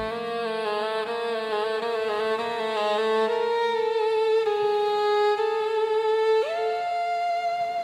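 Slow classical violin melody, long notes held with vibrato over a soft low accompaniment that fades out; about six and a half seconds in, the violin slides up to a higher held note.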